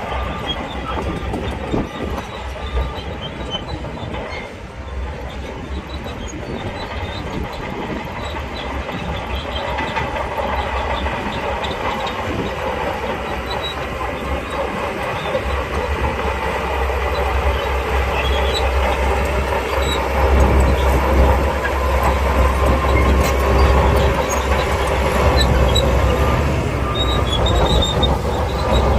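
SHANTUI crawler bulldozer working, its diesel engine and steel tracks running continuously. It grows louder from about halfway through.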